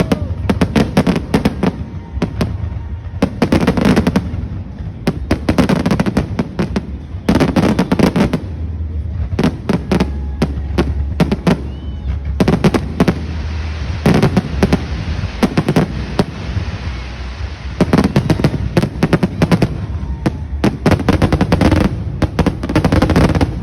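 Fireworks going off in rapid volleys of sharp bangs and crackles, a fresh cluster every few seconds.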